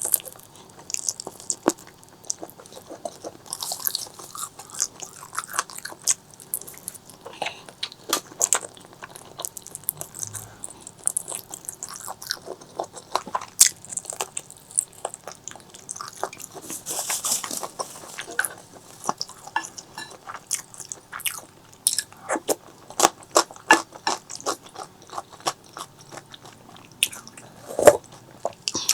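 Close-miked eating: a person biting and chewing food, with many irregular sharp clicks and short wet smacking noises.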